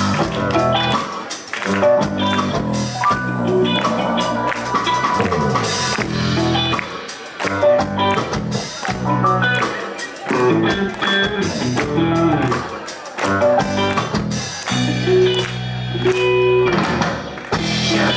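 Live band playing an instrumental intro: guitar over a drum kit, loud and continuous.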